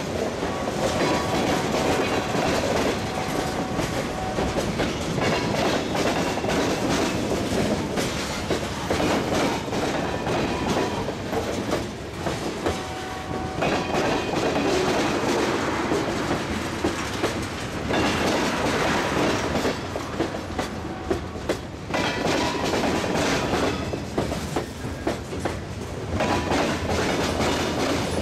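Freight train cars (tank cars and covered hoppers) rolling past at close range, their wheels clacking steadily over the rail joints.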